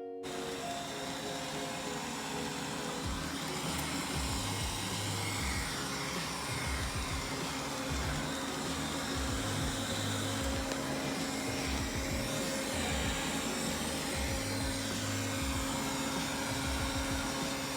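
Robot vacuum cleaner running, a steady motor whir and hum with an uneven low rumble as it moves across the floor.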